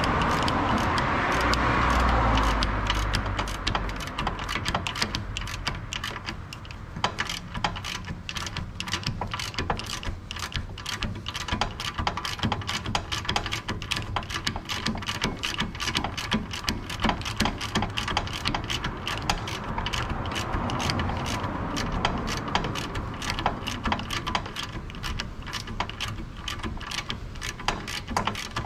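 Ratchet wrench clicking in quick runs of strokes, as when bolts are loosened or turned by hand. Background music fades out in the first few seconds.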